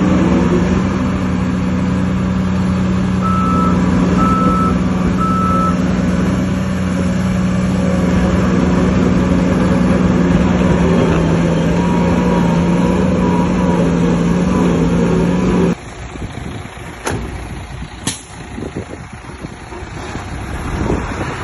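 Heavy diesel earthmoving machinery running steadily, with a reversing alarm beeping a little under once a second during the first few seconds. About three-quarters of the way through, the engine sound cuts off suddenly, leaving a quieter rumble with a couple of sharp knocks.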